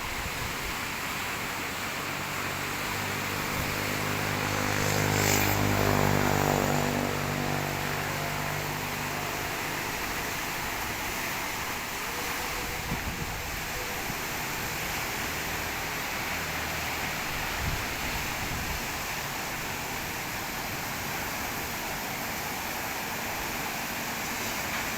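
Steady rushing outdoor noise with a motor vehicle's engine passing close by, building up and loudest about five to six seconds in, then fading away.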